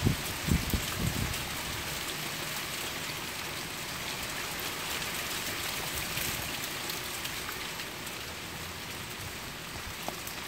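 Steady rain falling, a continuous hiss of drops hitting surfaces, with a few low thumps in the first second or so.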